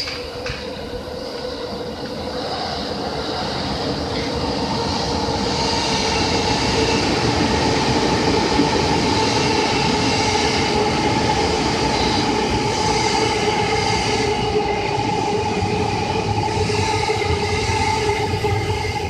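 JR Yamanote Line electric commuter train running past the level crossing, its wheel and motor noise growing louder over the first several seconds and staying loud before dropping away near the end.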